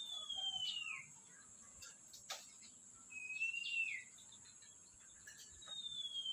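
Lovebird giving three long, clear whistled calls, each sliding down in pitch, spaced about three seconds apart, with a single sharp click between the first two.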